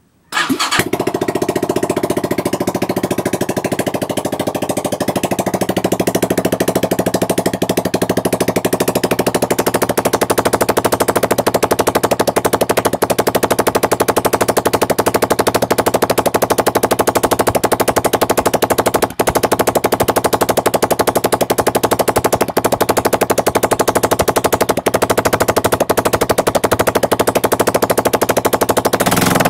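Minsk X250 enduro motorcycle's 166FMM single-cylinder four-stroke engine starting up about half a second in, then running at a steady idle with a fast, even firing beat; the revs ease down and settle over the first few seconds.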